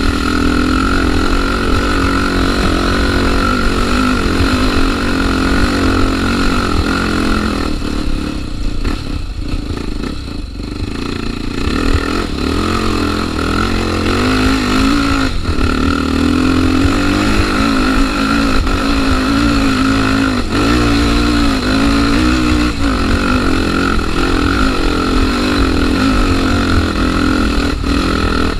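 Trail motorcycle engine running under way on a dirt trail, its pitch rising and falling with the throttle, easing off for a few seconds around ten seconds in before pulling again.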